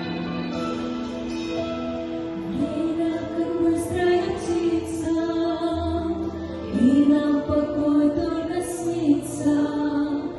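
Christian song with instrumental accompaniment; about two and a half seconds in, a woman's singing voice comes in over the held chords.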